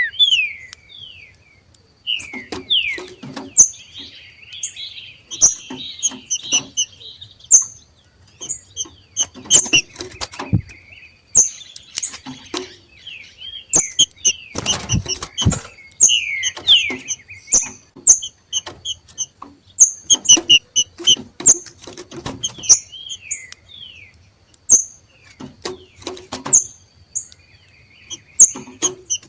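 Two green-winged saltators calling with a stream of short, sharp high notes and quick down-slurred chirps: the 'macheado' call that keepers use to stir other saltators into singing. Scattered sharp clicks run among the calls.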